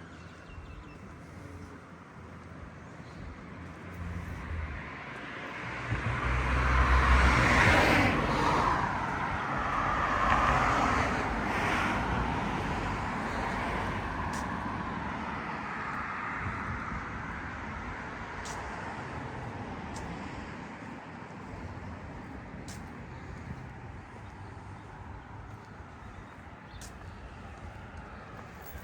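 City street traffic: a motor vehicle passes close about six to eight seconds in, with a low engine rumble and tyre hiss, a second vehicle follows a few seconds later, and the sound fades back to a steady traffic hum.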